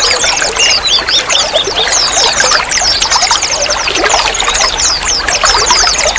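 Water flowing and trickling steadily, a continuous babbling made of many quick bubbling chirps.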